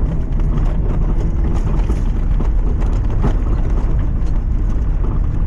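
A lifted Mazda MX-5 driving along a rough track: a steady engine and road rumble with a few scattered knocks and rattles.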